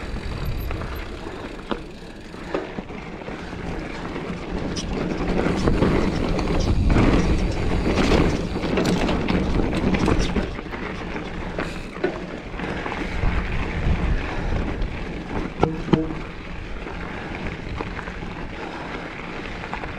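Mountain bike riding a rough, rocky singletrack: tyre noise on dirt and rock with sharp clacks and rattles from the bike over the rocks, loudest in the middle stretch.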